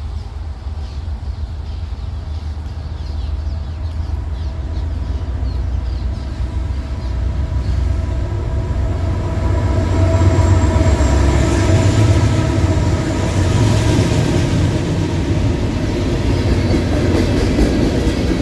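Norfolk Southern freight train led by two AC44C6M diesel locomotives passing by. A deep diesel rumble builds to its loudest about ten to twelve seconds in, then carries on with the rolling of the train.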